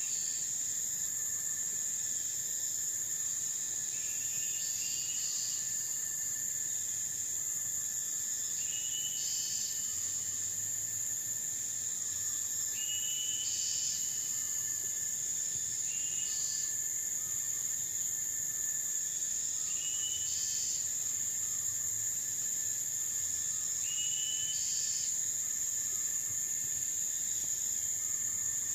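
Tropical forest night chorus: a steady, high-pitched insect drone, with short rising chirping calls repeating every few seconds over it.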